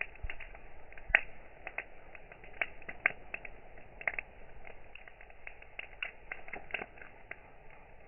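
Campfire crackling: burning wood gives irregular sharp pops and snaps over a low hiss, with the loudest pop about a second in.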